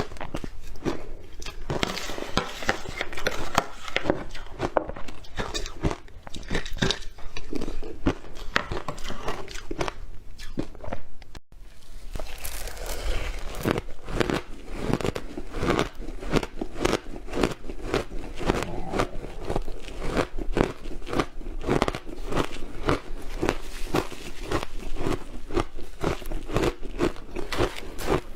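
Close-miked biting and chewing of crunchy milk powder: a dense, continuous run of crisp crunches, with a brief break about eleven seconds in.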